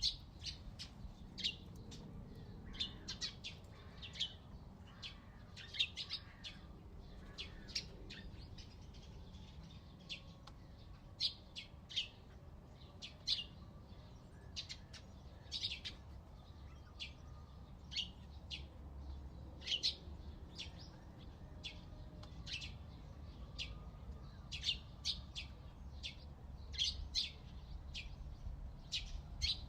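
Backyard birds chirping: many short, sharp chirps come in quick, irregular succession over a low steady rumble.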